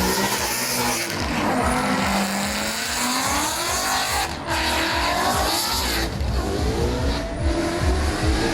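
Drift cars' engines revving, their pitch rising and falling, over the rushing noise of sliding tyres with some tyre squeal.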